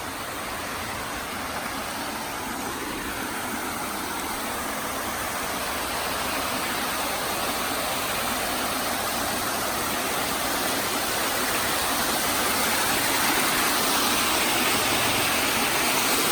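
Steady rushing and splashing of water falling over a small creek waterfall and running over shale, growing gradually louder.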